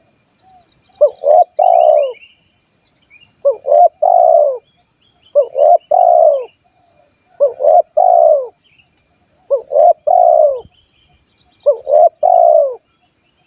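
Spotted dove cooing: a repeated phrase of two short coos and a longer drawn-out coo, about every two seconds, six times. Faint high chirps of small birds and a thin steady high buzz sit behind it.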